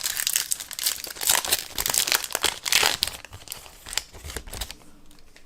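Foil Yu-Gi-Oh! booster pack wrapper crinkling as it is handled, a dense crackle for about three seconds that thins out towards the end.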